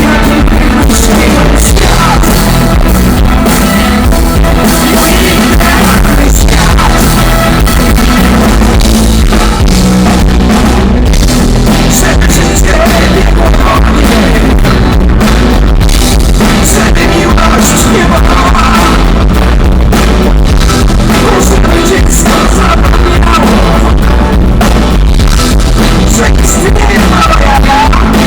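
Live rock band playing with a singer's vocal, recorded very loud and overloaded so the sound is distorted and crushed.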